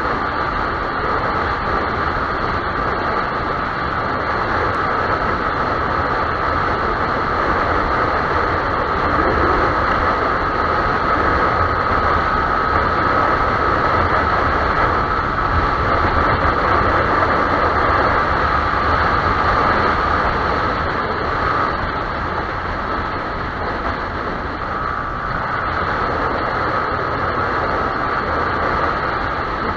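Yamaha YZF-R15 motorcycle running steadily at speed, its engine drone mixed with a heavy rush of wind and road noise.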